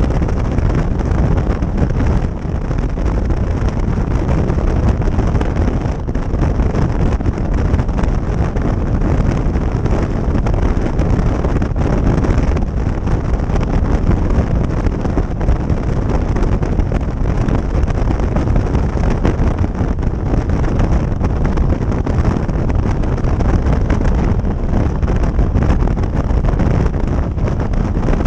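Steady wind rush over the microphone of a moving motorcycle, with engine and road noise underneath.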